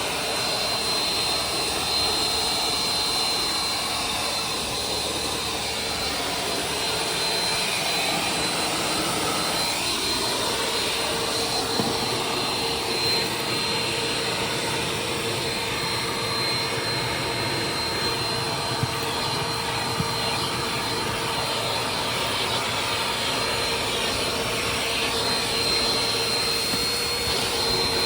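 Vacuum cleaner running steadily, a constant rushing noise with a thin high whine.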